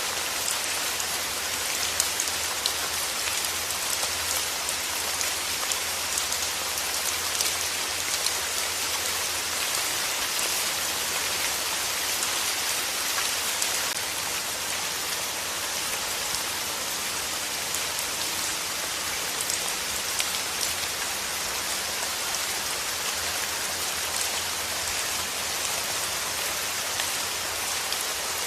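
Steady rain falling on a hard surface: an even, dense hiss with many individual drops ticking through it.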